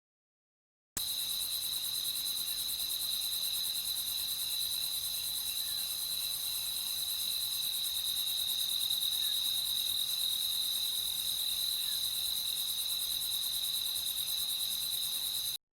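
Crickets chirping in a steady, high-pitched, continuous trill. It starts abruptly about a second in and cuts off sharply just before the end.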